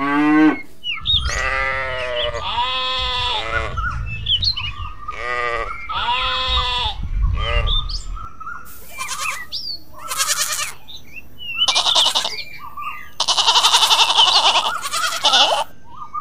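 Goat bleating: two long, wavering bleats in the first half, then a run of rougher, noisier calls, with small birds chirping throughout.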